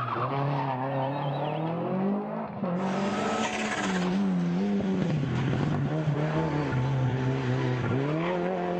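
Rally car engine revving hard, its pitch rising and falling again and again with throttle and gear changes. The sound changes abruptly about three seconds in.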